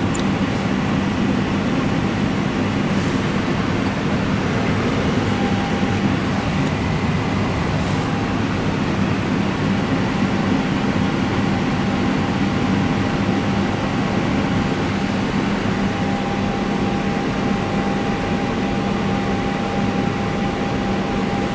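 Airbus airliner's auxiliary power unit (APU) starting up and cranking up to speed, heard from the flight deck as a steady drone with a faint high tone joining about five seconds in.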